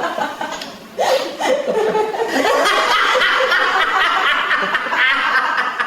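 People laughing loudly, several overlapping voices, starting abruptly about a second in.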